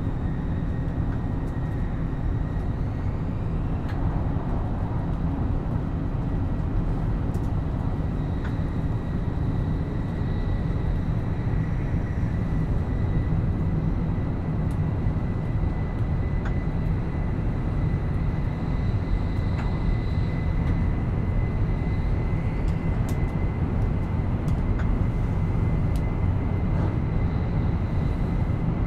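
Running noise of a JR East E7 series Shinkansen heard inside the passenger car at speed: a steady deep rumble with a thin high whine that rises slightly in pitch, and a few faint clicks.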